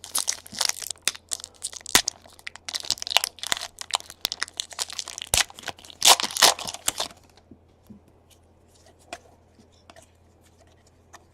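A baseball card pack's wrapper being torn open and crinkled, a dense run of tearing and crackling that stops about seven seconds in, followed by a few faint clicks as the cards are handled.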